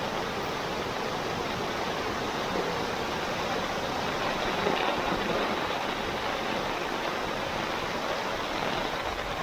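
Floodwater raging past: a steady rushing noise of fast, churning water with no breaks.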